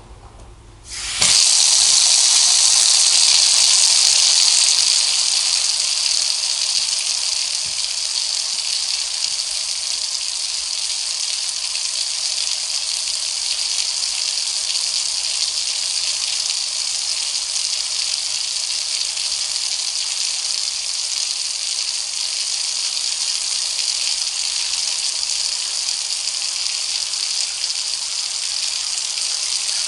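Tap water gushing into a bath: it starts suddenly about a second in, is loudest for the first few seconds, then runs on as a steady hiss-like rush.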